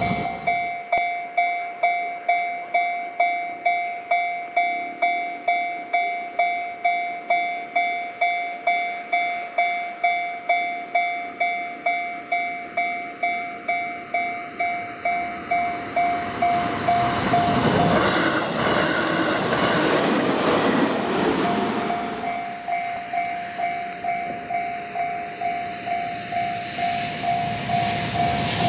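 Level-crossing warning bell ringing in an even pulse about twice a second, while a JR Central 373-series electric train approaches. The train passes about eighteen seconds in with a few seconds of rushing rail noise that drowns out the bell, and the bell keeps ringing after it has gone by.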